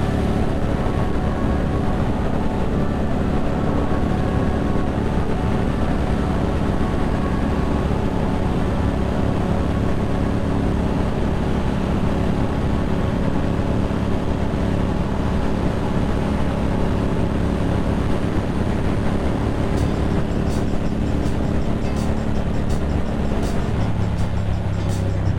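Motorcycle engine running at a steady cruise with wind noise over the microphone. Near the end the engine note drops lower as the bike slows.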